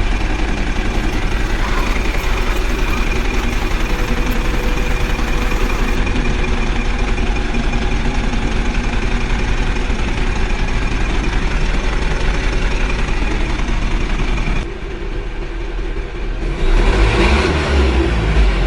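Vehicle engine running steadily. It drops slightly about fifteen seconds in and gets louder and rougher again near the end.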